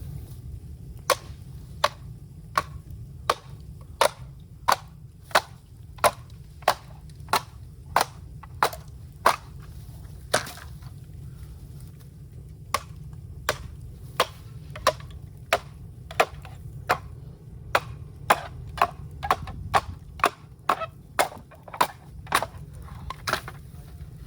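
Bamboo being chopped with a blade: a long run of sharp, regular strikes, about one and a half a second, with a short pause about halfway and quicker strokes near the end. A low steady rumble runs underneath.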